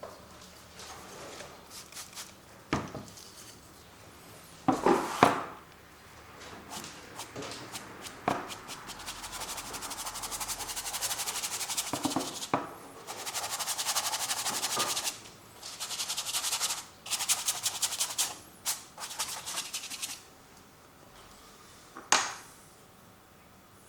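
Acrylic paint being worked onto a canvas with a painting tool: stretches of quick, scratchy back-and-forth strokes, with a few sharp taps of the tool between them.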